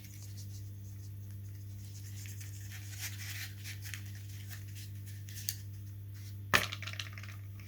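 Faint scratching and rustling from hands handling foam-board model-plane parts, over a steady low hum, with one sharp click about six and a half seconds in.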